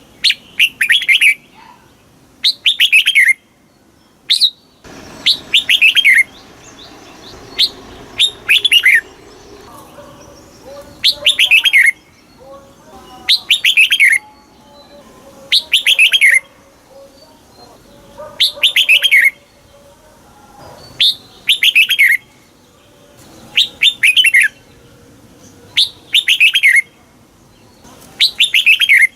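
Red-whiskered bulbul singing: short, loud song phrases repeated about every two seconds, each a quick run of notes falling in pitch.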